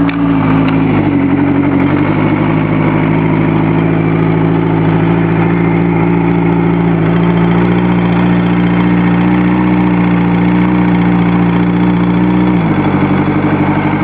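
1984 Kawasaki GPz750 Turbo's air-cooled inline-four running at fast idle on full choke just after a cold start, steady and even. Near the end the idle drops to a slightly lower pitch; the cold engine is a little stubborn to idle.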